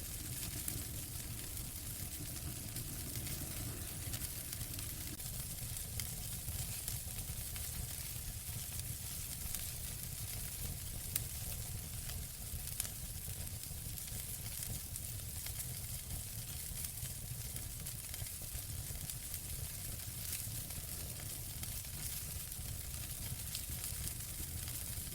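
Fireplace fire crackling steadily: scattered sharp pops and snaps over a constant hiss and low rumble.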